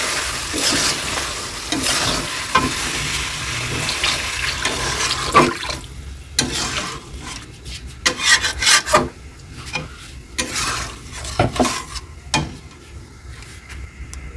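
Spiced chicken sizzling as it is fried and stirred with a spatula in a metal kadai. About six seconds in, water is poured in for the gravy and the sizzle dies down, leaving the spatula's knocks and scrapes against the pan.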